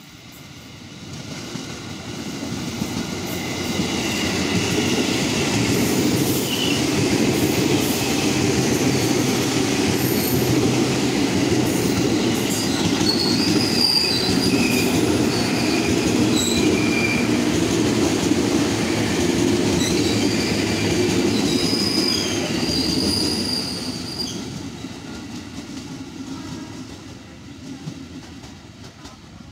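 Electric commuter train (an ex-JR East 205 series EMU) passing at close range. Its wheels rumble on the rails, building as it comes in, holding steady and loud for about twenty seconds, then fading away near the end. Short, high wheel squeals break in now and then while it passes.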